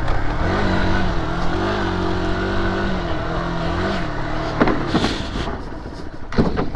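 Dirt bike engine running, its pitch wavering with the throttle, over a low rumble, with a few sharp knocks in the second half.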